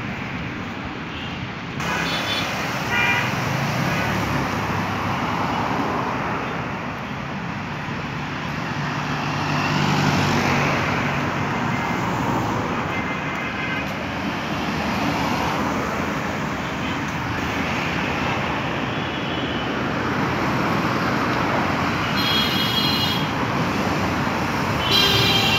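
Steady city road traffic, with vehicles passing and several short horn beeps now and then.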